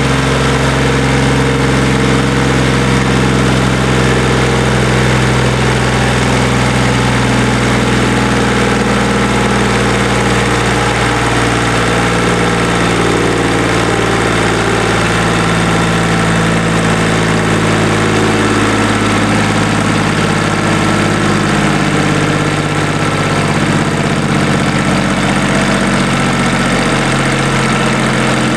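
QC385 three-cylinder diesel engine of a stationary diesel drive running steadily, a loud even diesel clatter.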